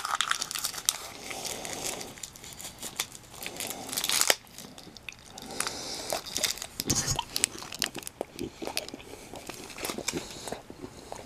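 A plastic snack-stick wrapper crinkling as it is opened, followed by biting and chewing of the meat snack stick.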